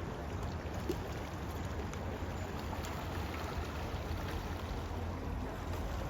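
Steady rushing of a river's current, a continuous even noise with a low rumble underneath.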